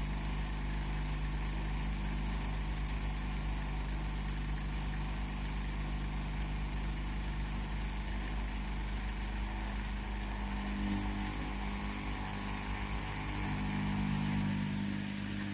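Washing machine running, its motor giving a steady hum. About two-thirds of the way through the hum changes pitch, and it swells briefly near the end.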